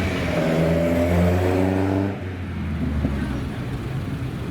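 A sports car engine running at raised revs, then dropping off sharply about two seconds in to a quieter idle as the throttle is released.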